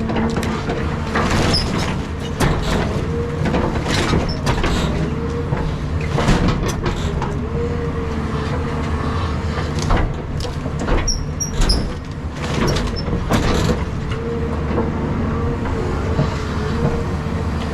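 Caterpillar 323 hydraulic excavator running under load, its engine droning steadily and its hydraulics whining with a pitch that wavers. Repeated sharp cracks and knocks of house debris being broken and moved during the demolition.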